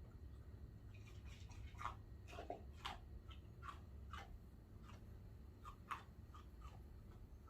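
Faint, irregular clicks and crunches, a dozen or so scattered over a few seconds, over a low steady hum.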